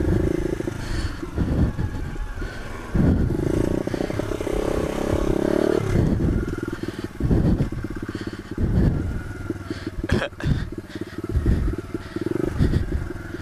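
Pit bike engine revving as it is ridden, held at high revs for about three seconds early on, then pulsing with short on-off bursts of throttle.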